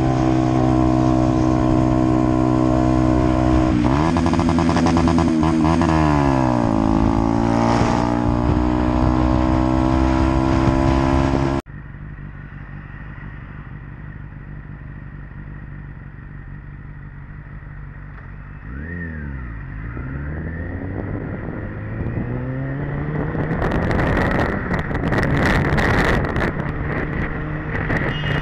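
Motorcycle engine running loud and steady, its pitch dipping and rising for a few seconds as the throttle changes. About twelve seconds in it cuts abruptly to a quieter motorcycle that revs up and down, with wind buffeting the microphone near the end.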